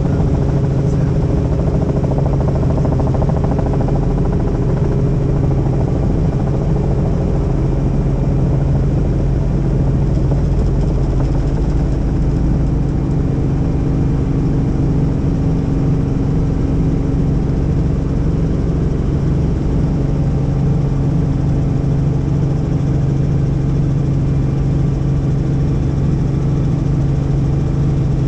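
Helicopter in flight: a steady drone of engine and rotors, with an unchanging low hum.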